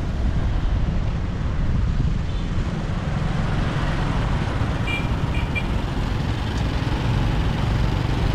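Steady road noise from riding a motorbike through city traffic: low rumble of the bike and wind on the microphone, with surrounding traffic. A few faint short high beeps sound about five seconds in.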